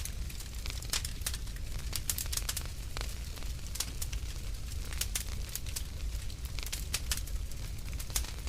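Wood fire burning in a fireplace, crackling and popping in irregular sharp snaps over a low steady rumble.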